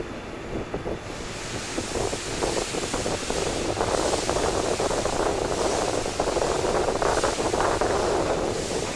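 Steam-hauled 12-series passenger coach rolling slowly out of the station, heard from inside the coach: a steady running noise that grows louder about two seconds in, with faint beats about once a second.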